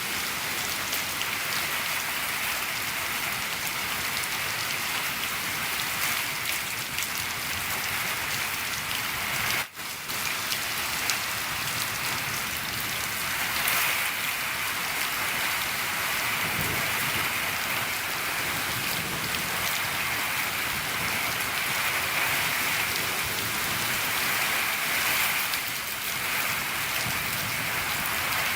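Steady, dense rain falling on a shed roof, an even pattering hiss, with a brief dropout just before ten seconds in.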